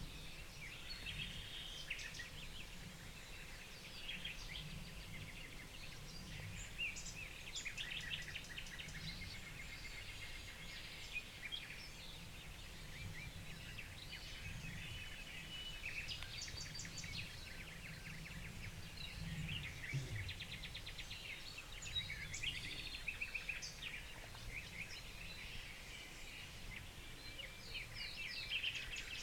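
Several wild birds singing and calling at once, a busy mix of short chirps, trills and rapid pulsed notes, over a low steady rumble.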